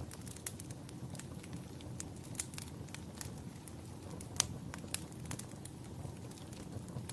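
Wood fire crackling in a fireplace: irregular sharp pops and snaps over a steady low rumble of flames, with one louder pop about four and a half seconds in.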